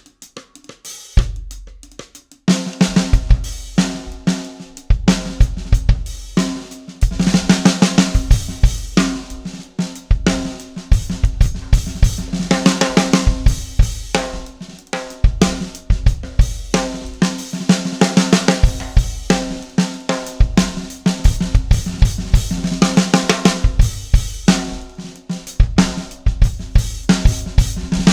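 Drum kit played in grooves and fills around a 6x14 PDP Limited Edition wood hoop snare drum, with kick drum, hi-hat and cymbals, close-miked with a Shure SM57 on top of the snare and a dynamic mic underneath. A few scattered hits, then continuous playing from about two seconds in.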